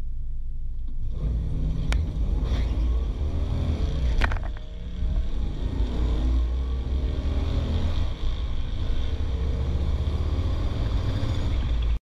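Studebaker drag car's engine heard from inside the cabin, running hard under full throttle during a drag-strip run. There are a couple of sharp clicks about two and four seconds in, and brief dips in level about four and a half and eight seconds in.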